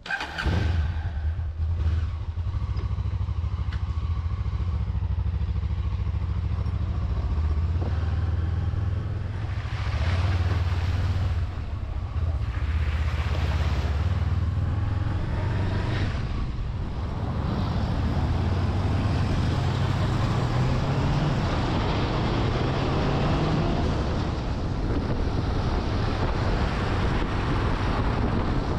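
A Honda CB500S motorcycle's parallel-twin engine running while riding, with wind rush growing louder about halfway through. About two-thirds of the way in, the engine note rises as the bike speeds up.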